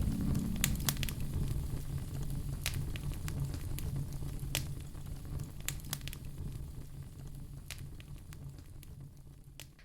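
Wood fire in a fireplace crackling, with scattered sharp pops of burning firewood over a low steady rumble, fading out near the end.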